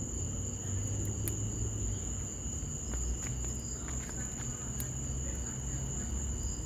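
Wood fire in an outdoor fireplace, burning with a low rumble and a few sharp crackles and pops. Over it runs a steady, high-pitched insect trill, like crickets.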